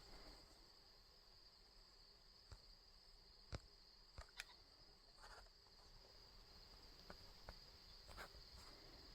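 Near silence with a faint, steady high trill of crickets, broken by a few soft clicks scattered through.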